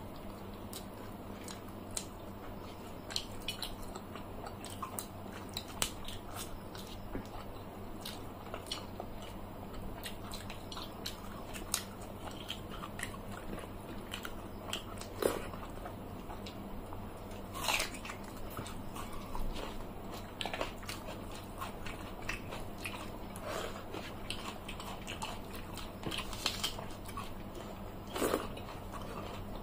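Close-miked eating by hand: chewing and crunching of fried fish with watered rice, with scattered short wet mouth clicks and smacks, a few louder ones about halfway through and near the end.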